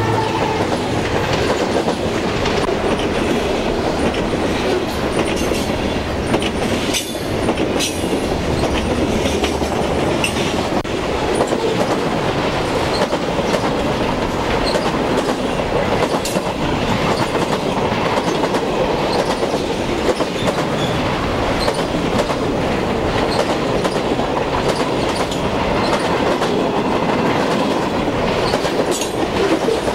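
Freight cars of a passing freight train rolling by at speed: a steady rumble of steel wheels on rail, with scattered sharp clicks as the wheels cross rail joints.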